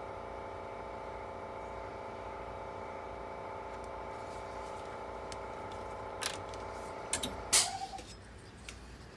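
A small electric motor's steady whine that cuts off after a few sharp clicks about seven and a half seconds in.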